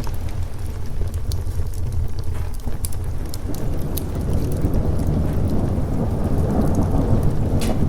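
Steady rain with a roll of thunder swelling up about halfway through, over a log fire crackling with scattered sharp pops.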